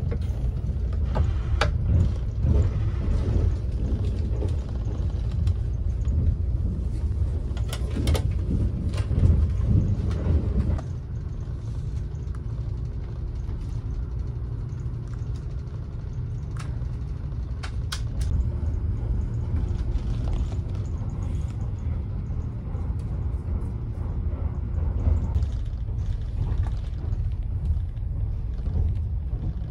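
Cabin noise of a Kintetsu Hinotori (80000 series) electric limited express running at speed: a steady low rumble. For the first ten seconds or so, clicks and knocks come from the armrest's fold-out tray table being opened, and the rumble drops a little about eleven seconds in.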